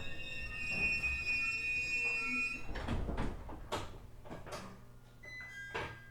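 Onboard sound of a JR East E127-series electric train with a Toyo GTO-VVVF drive coming to a stop at a station. A steady high whine fades after the first few seconds, and a series of knocks and clunks follows as the sound dies away.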